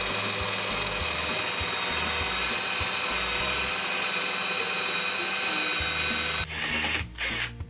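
Bosch benchtop drill press running steadily as its bit bores into a wooden board. The sound breaks up about six and a half seconds in and stops just before the end.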